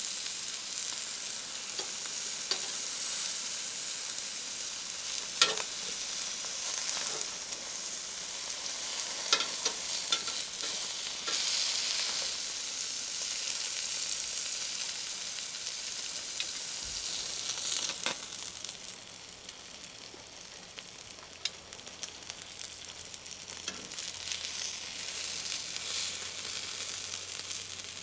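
Food frying and sizzling steadily while being stirred, with a few sharp clicks, the loudest about five seconds in. The sizzle eases for a few seconds past the middle, then picks up a little.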